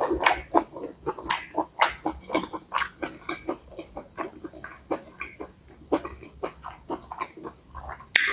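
Close-miked chewing of stir-fried rice noodles: irregular wet mouth clicks and smacks, a few each second.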